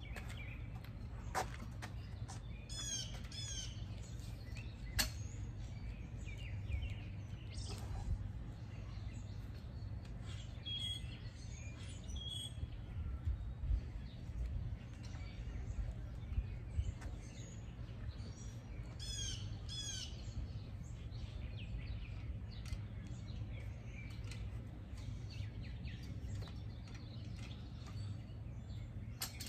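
Birds chirping and singing in short repeated phrases over a low steady rumble, with a few short knocks in the first several seconds.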